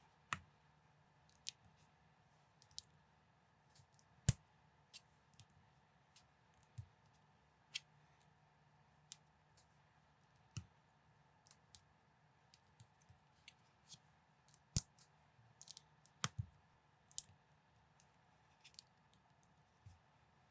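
Small plastic building bricks clicking as pieces are picked up, set down and pressed together, in irregular, scattered taps, the loudest about four seconds in and near the middle.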